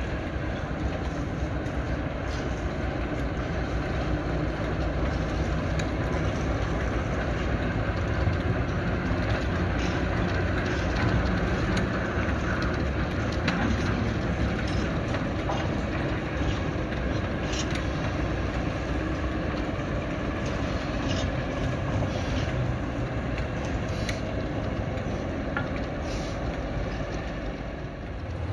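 Train running: a steady low mechanical noise with faint light clicks now and then.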